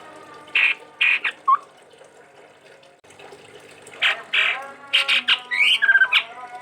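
Chestnut-rumped babbler calling: a few short harsh notes in the first second and a half, then a denser run of harsh calls mixed with short whistled notes from about four seconds in.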